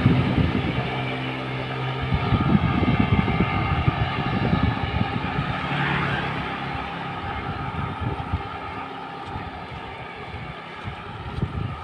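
Vehicle engine running on the move, its hum rising and fading as it changes speed, with wind buffeting the microphone and road noise.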